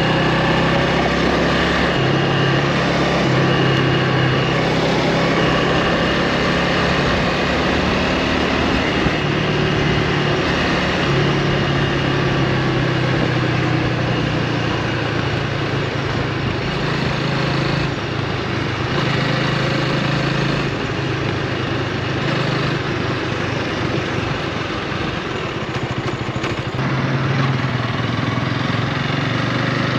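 2024 Honda Rebel 300's single-cylinder engine running on the move, its pitch shifting up and down several times, over a steady rush of wind noise on the microphone.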